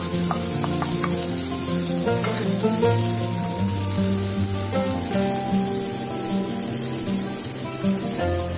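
Chopped onions sizzling in hot oil in a nonstick pan, stirred with a wooden spatula, with a few sharp clicks of the spatula in the first second. Background music plays over it.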